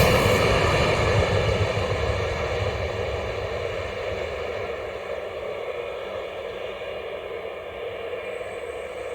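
Zentralbahn train hauled by an HGe 101 electric locomotive rolling away after passing, its running noise fading steadily.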